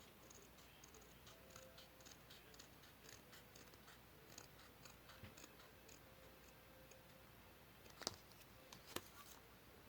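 Faint cutting of paper: a run of light quick snips, two or three a second, then two sharper clicks near the end.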